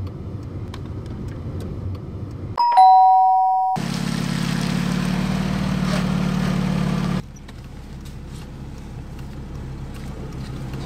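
Low engine and road rumble of a car being driven. About two and a half seconds in it is broken by a loud two-note ding-dong chime, high then lower, that cuts off abruptly after about a second. Then a car engine runs steadily and drops to a quieter low rumble about seven seconds in.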